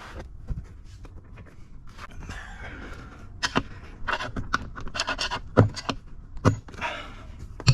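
A person breathing hard through the work, over a scatter of sharp metal clicks and knocks from hand tools on the differential.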